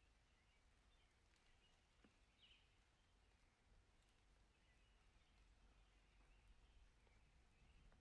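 Near silence, with a few faint, short high chirps from distant birds, the clearest about two and a half seconds in.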